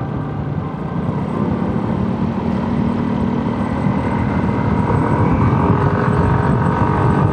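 Vespa GTS 250ie scooter's single-cylinder four-stroke engine running under way as heard from the rider's helmet. It grows gradually louder, with its pitch edging a little higher in the second half as the scooter picks up speed.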